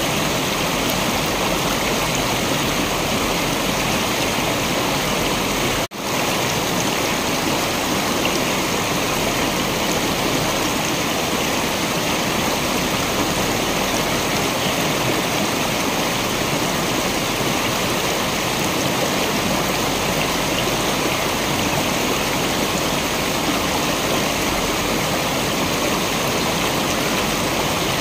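Steady, continuous rush of a waterfall, an even hiss of falling water, with a momentary break in the sound about six seconds in.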